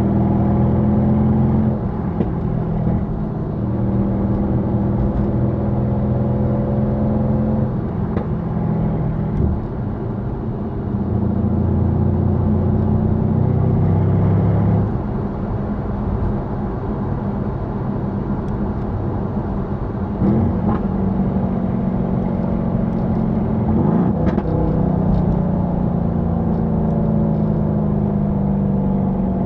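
Mercedes-AMG W205 C63 S twin-turbo V8 on its stock exhaust, running while driving; the engine note steps and glides up and down in pitch several times as revs change.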